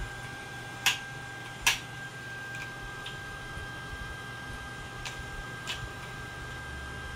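Sharp clicks: two loud ones a little under a second apart near the start, then two fainter ones about a second before the middle of the later half, over a faint steady high whine and low hum.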